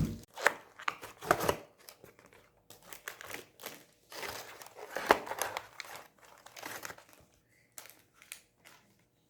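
Takeaway food packaging being handled and opened, crinkling and rustling in short, irregular spells.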